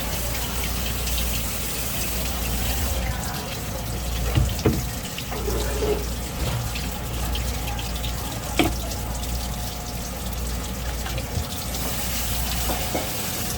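Tap water running and splashing into a sink, with a few sharp knocks about four and a half and eight and a half seconds in.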